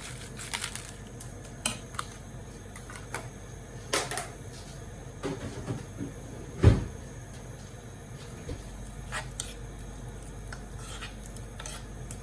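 Kitchen handling sounds: scattered clicks and knocks of dishes and utensils, with one heavier thump about two-thirds of the way through.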